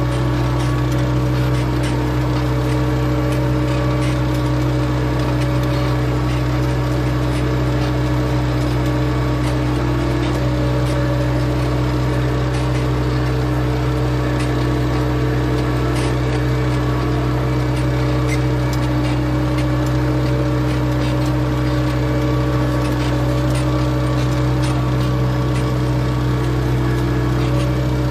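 A4800 tractor's diesel engine running at a steady speed, a constant low drone with no change in pitch or level.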